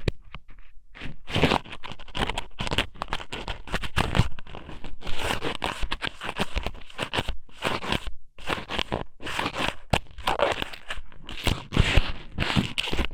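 Strips of raw squid noodles (ika sōmen) pushed and rubbed inside a microphone's ear for ear-cleaning ASMR: close, irregular wet scratching and crackling that comes in uneven bursts.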